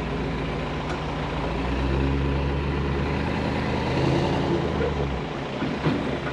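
Truck engine running steadily while a trailer is backed into place. Its drone swells about two seconds in, then the low part of it drops away about five seconds in.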